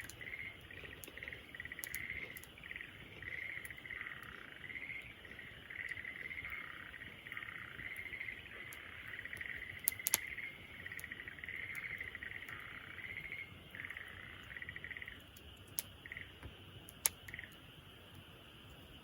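Night chorus of trilling animal calls in repeated phrases, with a few sharp pops from a crackling wood fire, the loudest about halfway through. The calls stop shortly before the end, leaving the fire's faint hiss and a couple of pops.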